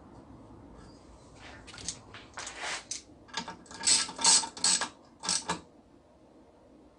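Hand socket ratchet clicking in several short runs, the sound of fasteners being turned by hand.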